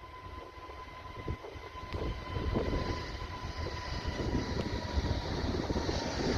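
Airbus A320 jet engines at full takeoff thrust during the takeoff roll, heard from a distance as a rumbling roar that grows steadily louder.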